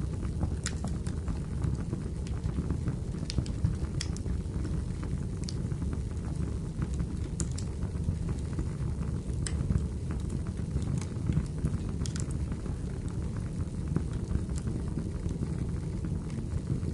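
Wood fire burning in a fireplace: a steady low rumble with sharp crackles and pops scattered every second or two.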